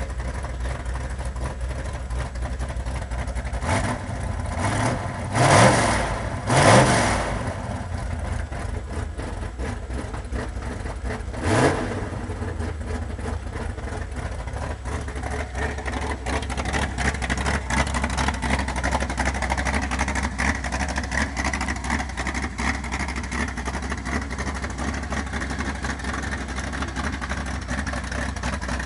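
Built Ford 351 Windsor V8 with open headers idling with a loud low rumble. The throttle is blipped in four short revs in the first half, two of them close together and loudest, before it settles back to a steady idle.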